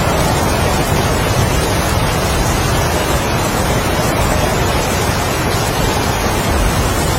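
Heavy rain and strong wind in a steady, dense rush with a deep low rumble.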